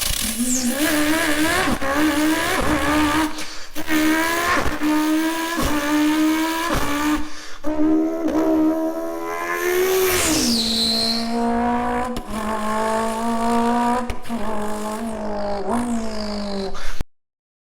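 A person's voice imitating a car engine: a continuous buzzing drone with short repeated pitch rises like revs and gear changes, plus a few high falling squeals like tyre screeches. About ten seconds in, the drone drops to a lower, steady pitch, and it cuts off abruptly near the end.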